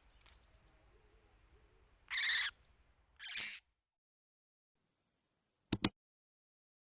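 Two short, harsh bird calls, about two and three seconds in, over a thin steady high whine that stops after the second call. Near the end come two sharp clicks, then silence.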